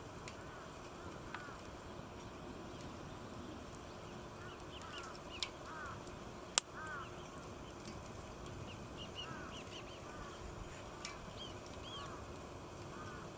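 Birds calling in short, repeated arched chirps over a steady hiss, with a few sharp snaps; the loudest snap comes about six and a half seconds in.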